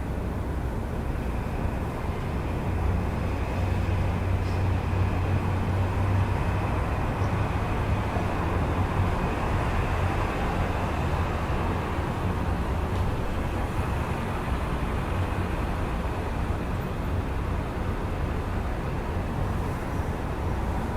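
Steady low rumble of city traffic heard through an open window, with a faint high whine through the first half.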